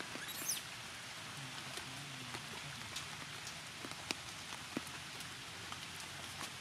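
Steady rain falling, with scattered louder drops striking close by. A brief high rising squeak about half a second in.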